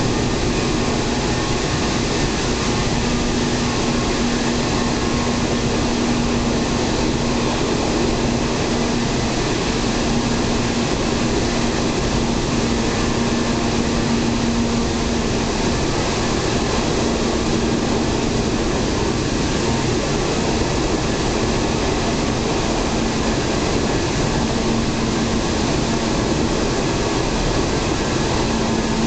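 Steady running noise inside a local passenger train at speed: an even rumble of wheels and air, with a low hum that fades in and out.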